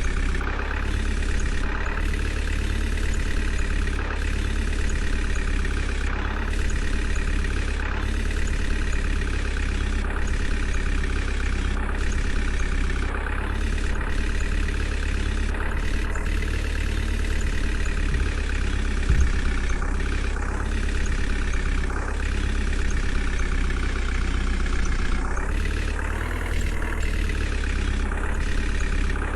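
Heavy diesel engine of earthmoving machinery running steadily, with a single thump about two-thirds of the way through and a brief rise in engine pitch near the end as it takes on load.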